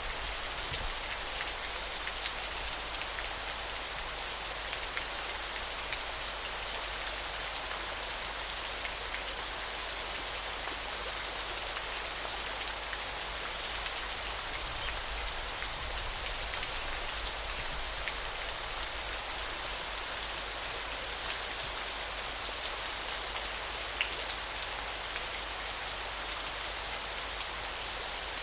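Steady rush of flowing river water. From about a quarter of the way in, a thin, high trill repeats in short bursts about every two seconds.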